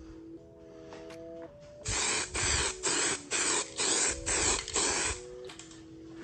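Aerosol can of self-etching primer spraying in about six short hissing bursts, each around half a second long, over steady background music.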